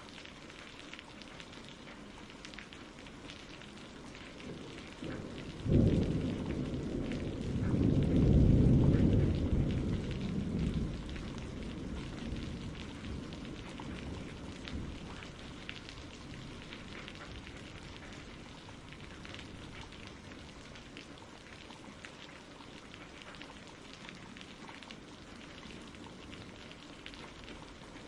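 Steady rain falling, with a thunderclap breaking in suddenly about six seconds in and rolling into a deep rumble that fades over the next several seconds.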